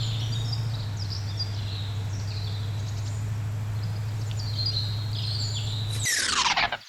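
Birds chirping over a steady low hum. About six seconds in the hum cuts off and a quick falling swoosh sweeps down in pitch.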